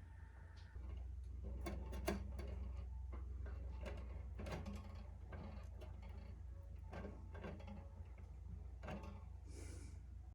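Scattered light clicks and knocks from small parts being handled, over a steady low hum that comes in about a second in.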